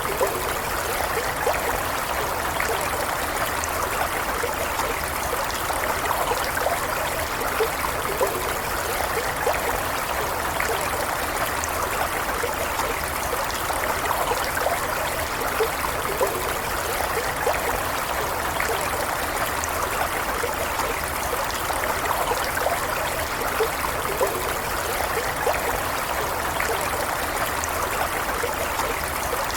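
Stream water running and trickling steadily, with small irregular gurgles and splashes.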